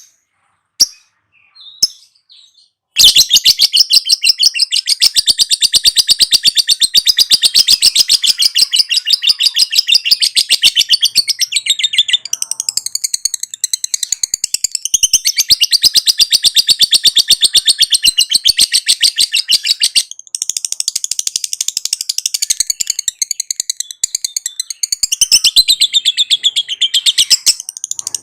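Lovebird giving a few single chirps, then about three seconds in breaking into a long, very rapid high-pitched chattering trill, the 'ngekek' call, with a brief break about two-thirds of the way through.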